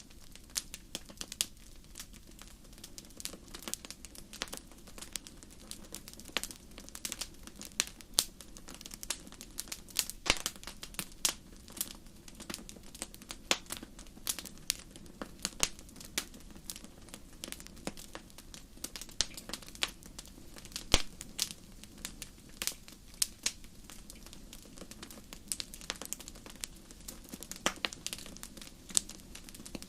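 Wood fire burning in a fireplace, crackling with irregular sharp pops over a steady low rumble of the flames; one of the loudest pops comes about two-thirds of the way through.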